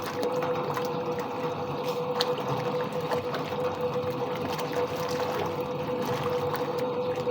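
Soviet-era washing machine running mid-wash: a steady motor hum with water sloshing inside the tub and a few light clicks.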